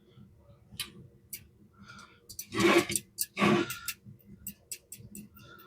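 Pliers working tight screws loose on an old Vibroplex telegraph key: small metal clicks, with two longer scraping sounds about two and a half and three and a half seconds in.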